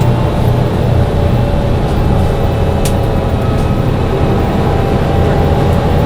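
Mercedes-Benz O405 N1 low-floor city bus heard from inside the cabin, its rear-mounted six-cylinder diesel running with a steady low drone. One sharp click about three seconds in and a few fainter ticks are typical of the rattling this model's hard suspension gives it.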